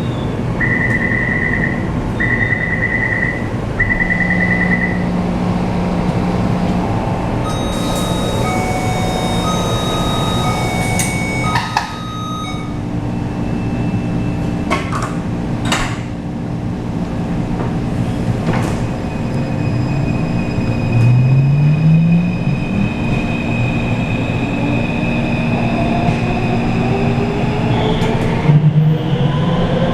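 Taipei Metro C341 train at the platform: a warning tone beeps three times, further beeps sound, and the doors close with a few clunks. Then the traction motors start up, their whine rising steadily in pitch as the train pulls away.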